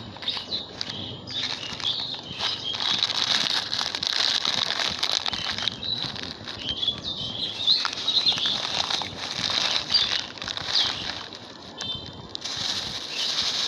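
Plastic garbage bag rustling and crinkling as litter is stuffed into it, in uneven crackly bursts.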